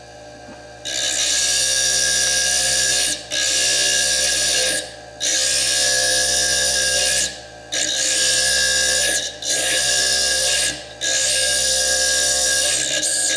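Foredom bench lathe running with a small slitting disc cutting into fire agate: a loud, gritty grinding that starts about a second in and stops briefly about five times, over the motor's steady whine.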